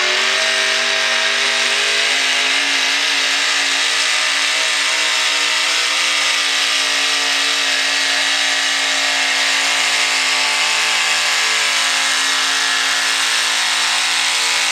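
Single-engine modified pulling tractor's engine running loud and flat out, held at a steady high pitch through the pull.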